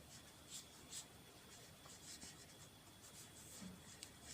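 Faint scratching of a pen writing, in short irregular strokes.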